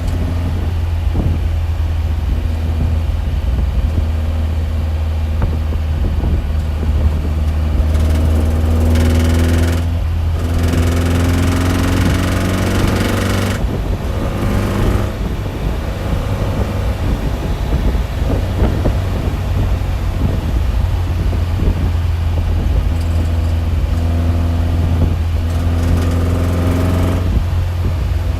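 A loud, steady low mechanical hum with fainter steady tones above it. A hiss swells up twice, about eight seconds in and again near the end.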